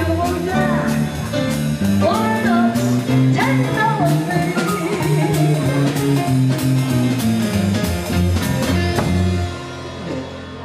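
Small jazz band playing live, with a stepping bass line, cymbal strokes and a bending lead melody. The tune ends about nine and a half seconds in.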